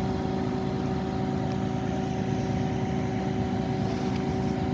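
A vehicle engine idling steadily: a constant hum with several fixed tones over a low rumble.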